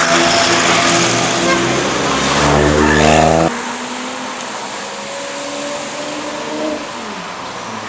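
Lamborghini Murciélago V12 running through an IPE exhaust, loud and rising in pitch as it revs, then dropping suddenly about three and a half seconds in to a quieter, steady engine note.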